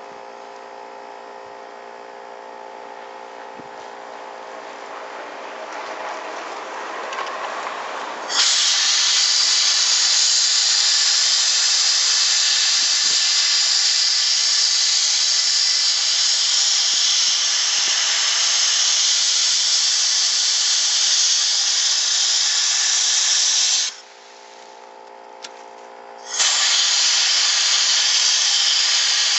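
Gravity-feed sandblasting gun blasting: a loud, steady hiss of air and grit that cuts in about eight seconds in, stops briefly near the end and starts again. An air compressor hums steadily underneath throughout.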